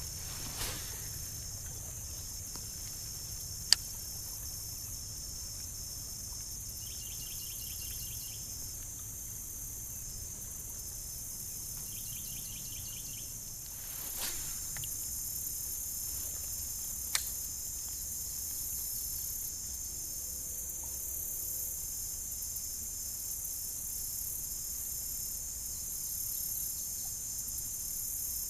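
A steady, high-pitched chorus of insects droning without a break, with two sharp clicks, one about four seconds in and one past the middle.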